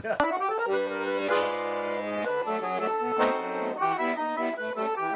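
Accordion (sanfona) playing a tune, melody notes over held chords.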